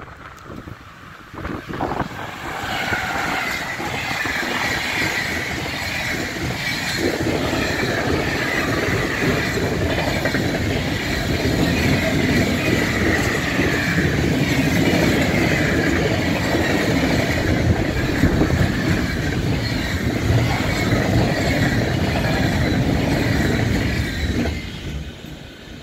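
Freight train of container flat wagons passing at speed: a steady heavy rumble of wheels on rail with a high, wavering wheel squeal on top. It builds about two seconds in and falls away quickly near the end as the last wagon passes.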